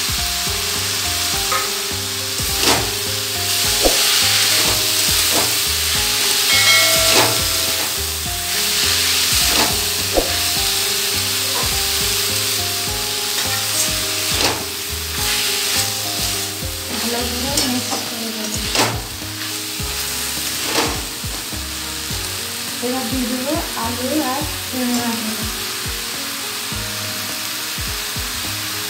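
Chopped banana flower sizzling as it fries in oil in an aluminium kadai, stirred with a spatula that scrapes and knocks against the pan at irregular moments.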